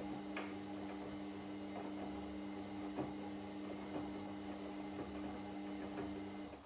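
Washing machine drum motor running with a steady hum while light knocks come from the tumbling laundry about once a second; near the end the motor cuts off as the drum pauses.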